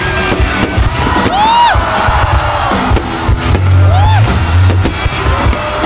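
Fireworks popping and bursting overhead while music plays loudly over loudspeakers, with a crowd whooping and cheering; two long rising-then-falling 'whoo' shouts stand out, about a second in and near the four-second mark.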